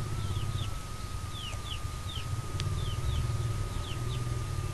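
Birds chirping in the background: short falling chirps, often in pairs, a few each second, over a low steady hum and a thin steady tone. A single sharp click comes about two and a half seconds in.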